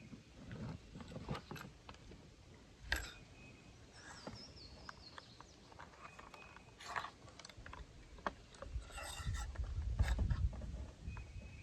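Parts of a Swiss K31 rifle being handled and fitted back together during reassembly: scattered light clicks and knocks of metal and wood, one sharper click about three seconds in, and heavier handling noise near the end.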